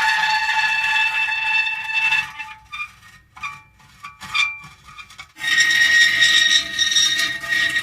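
Metal creaking: a long, drawn-out squealing creak holding a steady pitch, then a few short, scattered creaks with gaps between them. About two-thirds of the way in, a long steady creak starts again.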